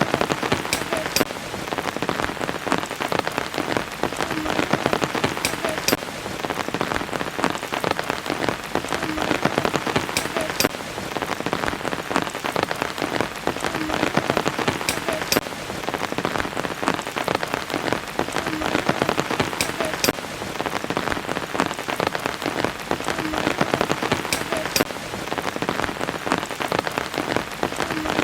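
Steady rain falling, a dense patter of drops, with a few sharper drop sounds recurring about every five seconds.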